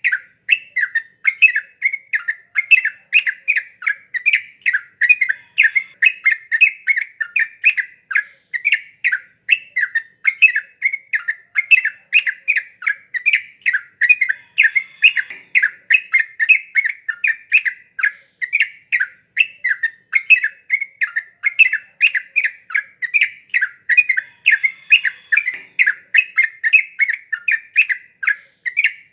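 Yellow-vented bulbul (cucak trucukan) singing without pause, a fast, unbroken run of short notes, several a second.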